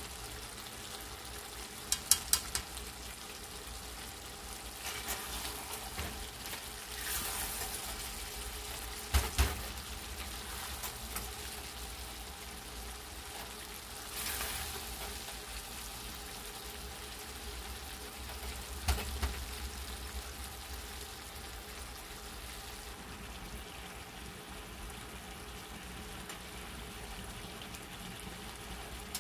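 Beef tripe sizzling in a thick sauce in a metal pot, a steady frying sound, while it is stirred with a spatula that knocks sharply against the pot a few times and scrapes along it.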